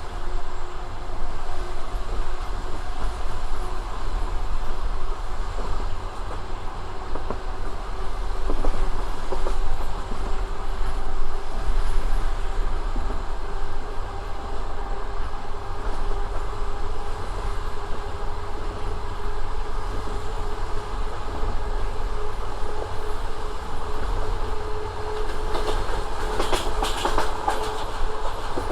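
Passenger train running between stations, its wheels clattering over the rail joints. A steady tone in the running noise rises slowly in pitch, and a quick cluster of knocks comes near the end.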